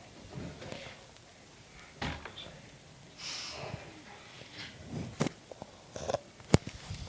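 Scattered knocks, rustles and clicks, with one sharp, loud click about six and a half seconds in.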